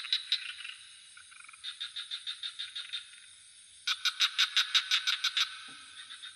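Frogs calling at night in rapid pulsed trains of about six croaks a second, one train after another, over a steady high insect trill from crickets.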